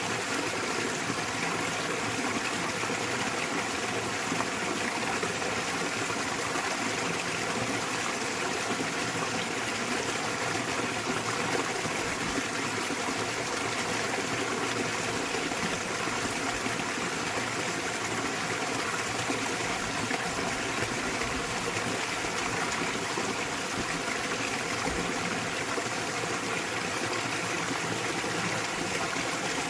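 Small waterfall in a mountain stream: water pouring and splashing in a steady, unbroken rush.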